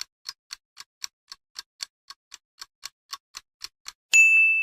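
Clock-ticking countdown sound effect, about four ticks a second, ending about four seconds in with a single bell ding that rings on and fades: the answer timer running out.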